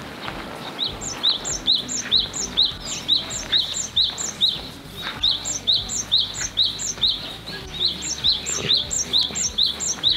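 A songbird calling a short, rising chirp over and over, about three a second, with two brief pauses.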